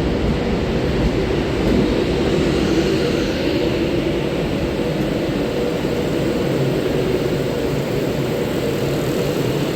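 Steady running noise inside a passenger train's carriage: a low rumble and hiss with a faint steady hum.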